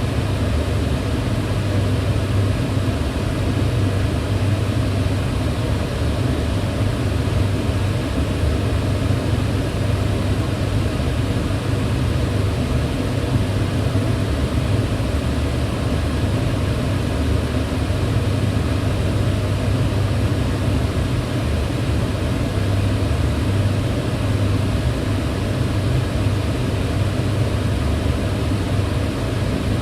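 Kitchen range hood fan running steadily: an even, unbroken rushing noise with a strong low hum.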